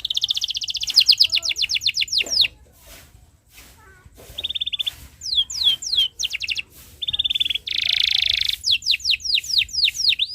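Domestic canary singing: fast rolling trills alternate with runs of quick, repeated downward-sweeping chirps. The song breaks off briefly about two and a half seconds in, and a harsh buzzy note comes about eight seconds in.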